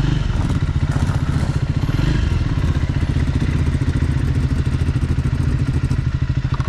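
Motorcycle engine running steadily at an even speed, with a fast, regular beat.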